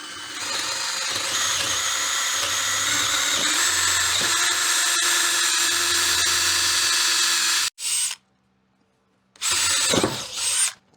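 Power drill boring a hole through soft wood, running steadily for about seven and a half seconds and then cutting off abruptly. A second short run of the drill comes near the end.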